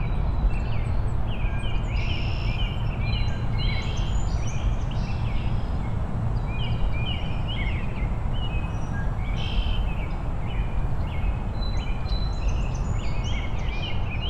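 Several birds chirping in short, repeated calls throughout, over a steady low rumble of outdoor background noise.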